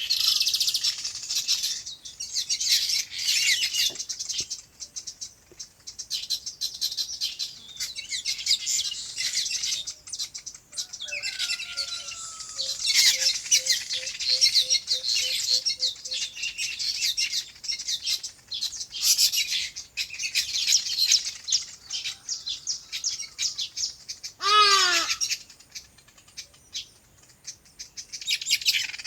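Many small birds chirping and chattering together in a dense, continuous chorus. About halfway through comes a run of low, evenly spaced notes, and near the end one short, loud call that falls in pitch.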